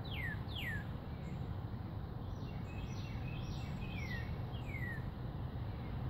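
Bird calling in short falling notes, two near the start and two more about four to five seconds in, with fainter higher notes between them, over a steady low background rumble.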